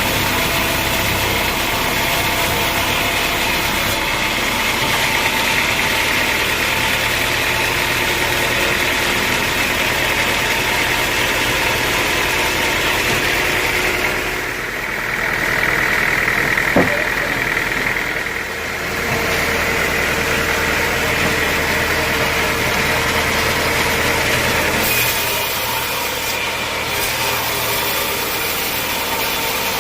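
Sawmill machinery running steadily. The sound shifts for a few seconds about halfway through, with one sharp knock, then settles again and shifts once more near the end.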